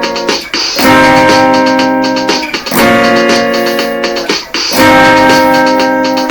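Guitar playing slow strummed chords, a new chord struck about every two seconds and left ringing between strums.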